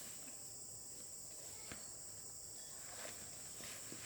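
Insects calling in a steady high-pitched chorus, with a faint sharp click a little under halfway through and a few soft knocks.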